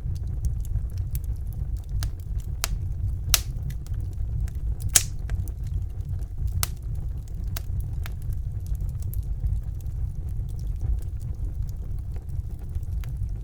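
Fire burning in a fireplace: a steady low rumble of flames under irregular sharp crackles and pops, the two loudest pops about three and five seconds in.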